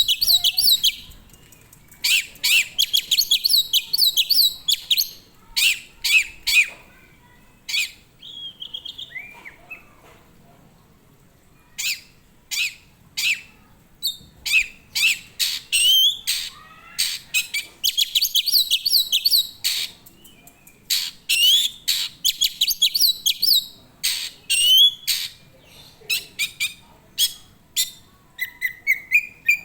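A songbird singing in phrases of rapid, sharp high notes, each phrase a second or two long with short pauses between, the bird in full song.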